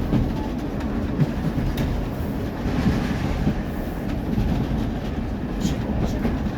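Steam-hauled railway carriage running along the track, heard from on board: a steady low rumble with scattered clicks and clatter from the wheels.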